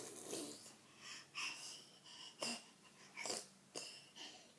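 A baby making short breathy noises, about six in a row with pauses between them.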